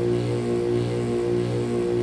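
Pelonis heat pump running with a steady low hum and overtones, swelling slightly about every two-thirds of a second.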